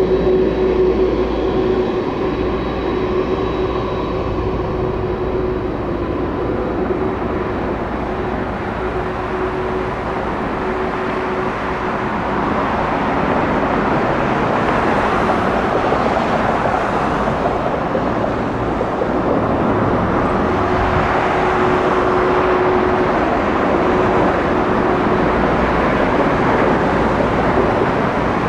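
Airbus A350-1000 jet airliner's engines on its landing approach, a steady rushing jet noise with a faint held tone underneath. It grows louder about halfway through.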